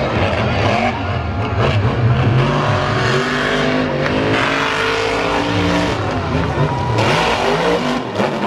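Monster truck engine running hard and revving, its pitch rising and falling, with a climb in revs in the middle.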